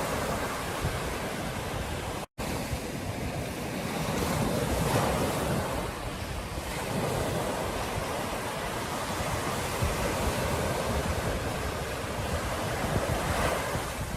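Ocean surf washing onto a beach, a steady rush that swells and eases, with wind buffeting the microphone. The sound drops out completely for a split second a little over two seconds in.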